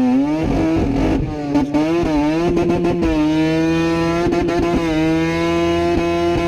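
Mazda rotary engine held at high revs, with its pitch dipping and snapping back up several times in quick blips, crackling and popping, then holding a steady high note for the last second or so.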